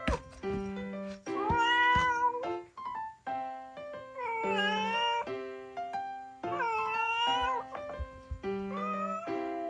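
A cat meowing four times, each a drawn-out meow about a second long, over background music with held notes.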